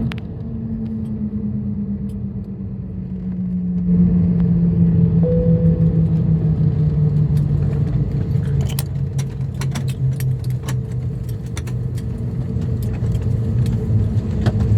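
Airbus A321 engine heard from the cabin, its hum falling steadily in pitch as it spools down. Scattered metallic clicks join in from about halfway through.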